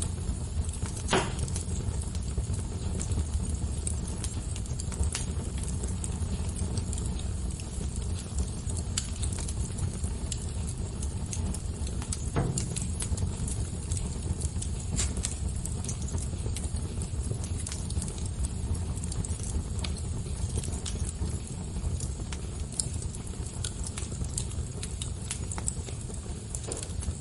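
Fire crackling: scattered sharp pops and snaps over a steady low rumble, with a louder pop about a second in and another near the middle.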